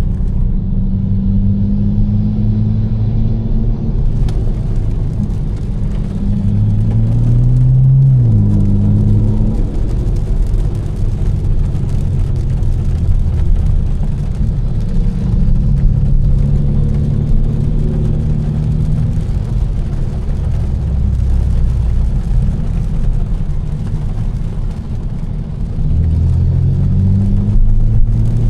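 Tuned BMW M4's twin-turbo straight-six, with catless downpipes and an aftermarket exhaust, droning at part throttle while driving. The engine note climbs and drops sharply about eight seconds in as it shifts up, and climbs again near the end. An even hiss of tyres on a wet road runs underneath.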